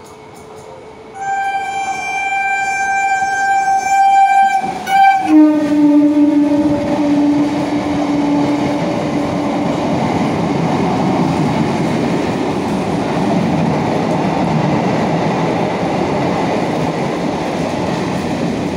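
EMU local train sounding a steady horn for about four seconds, then a lower horn tone for a few seconds as it reaches the platform, followed by the steady rush of its coaches running through at speed.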